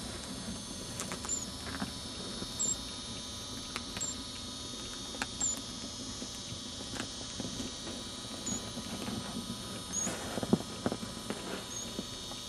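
Newly hatching parakeet chick cheeping from inside its egg: about seven thin, high peeps spaced a second or two apart. Faint clicks can be heard between them.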